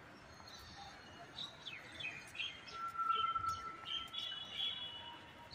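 Birds chirping and calling: many short chirps and quick sweeping notes, busiest in the second half, with one held whistle lasting about a second around three seconds in.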